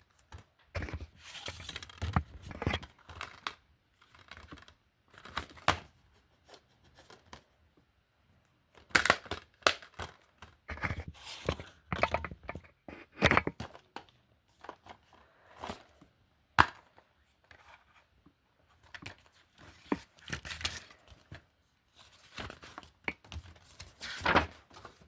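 Film and TV disc cases being handled and shuffled: irregular sharp plastic clicks and clacks, with short rustling and scraping stretches in between.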